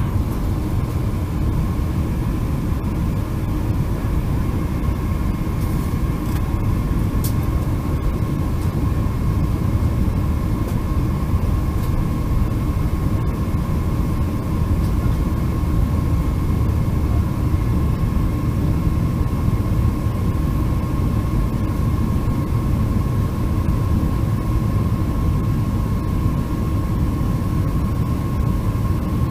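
Boeing 747-400 jet noise heard as a steady, even rumble of engines and airflow, with a steady whine near the middle of the range and no changes in thrust.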